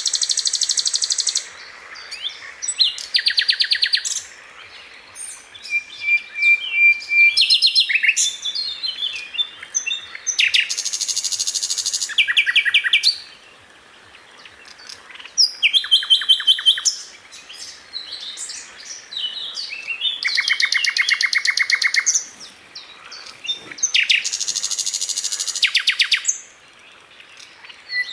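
Sikatan londo flycatcher singing in fast, tightly packed bursts of rapid repeated high notes. The bursts last a second or two each, with short pauses between them, and a brief steady whistle comes about six seconds in.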